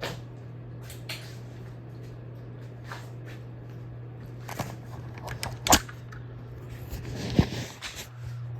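A 32-inch Hampton Bay Minuet II ceiling fan running with a steady low motor hum, over a scatter of clicks and knocks, the two loudest about five and a half and seven and a half seconds in.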